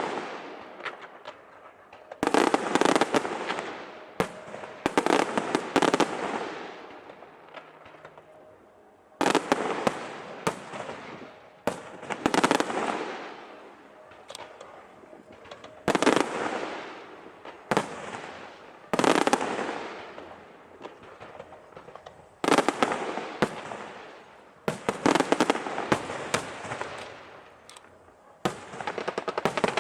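Aerial fireworks shells bursting overhead: a sharp bang every two to three seconds, each trailing off in a crackle and echo, with a quick run of crackling reports near the end.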